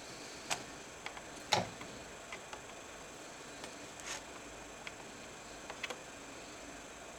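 Scattered light clicks and taps of small laptop parts and tools being handled during disassembly, irregular, the loudest about a second and a half in, over a faint steady hiss.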